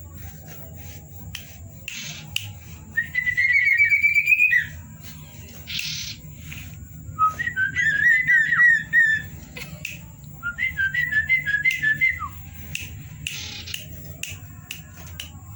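Common iora (cipow) singing: three quick phrases of rapid, clear whistled notes, each lasting one to two seconds with short pauses between. A few brief scratchy swishes fall between the phrases, over a steady faint high-pitched tone.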